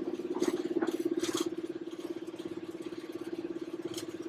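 Class 31 diesel-electric locomotive's engine running with a steady, throbbing hum in the cab, with a few faint short hisses and clicks in the first second or so.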